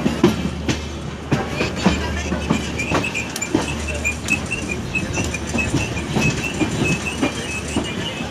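Moving passenger train: steady rumble with wheels clattering and knocking over the rail joints, and a fast, pulsing high squeal from about two seconds in.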